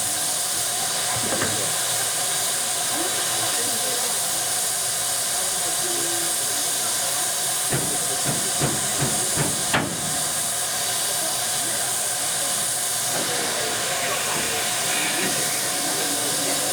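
Steady hiss of steam from a standing steam locomotive, with a short run of knocks and clanks about eight to ten seconds in.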